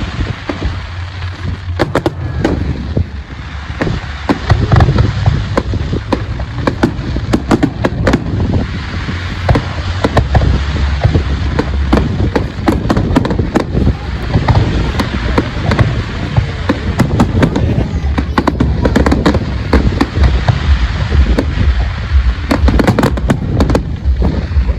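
A fireworks display at its height: rapid, overlapping bangs and crackles from many shells bursting one after another, over a deep, continuous rumble of booms.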